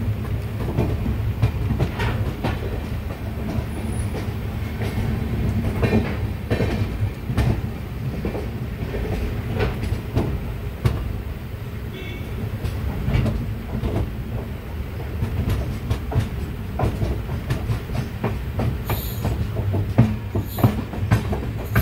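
Passenger express train running, heard from on board: a steady low rumble with irregular clattering knocks as the wheels cross rail joints and points while the train pulls away from the station.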